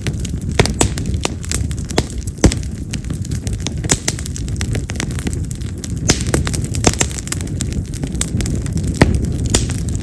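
Wild cherry (yamazakura) firewood burning in an open wood fire, crackling and popping sharply several times a second, some pops loud and firecracker-like, over a steady low rush of the flames.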